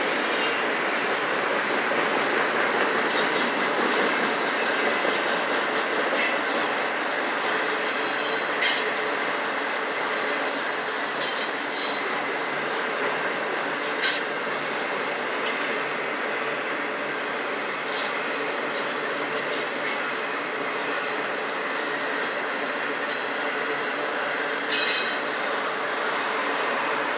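Norfolk Southern autorack freight cars rolling steadily past, a continuous rumble of steel wheels on rail. Several sharp clanks stand out, and brief high-pitched wheel squeals come through now and then.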